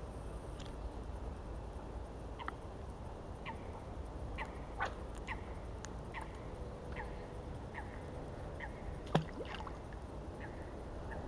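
Short bird chirps repeating every half second to second over a steady low rumble. A single sharp click about nine seconds in stands out as the loudest sound.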